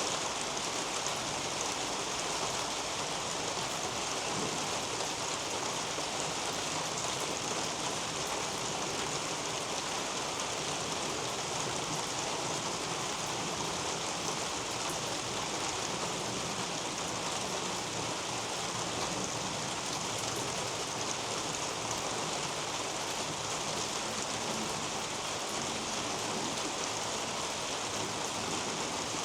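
Steady rain falling through a leafy garden canopy: an even hiss with a fine patter of drops that does not change.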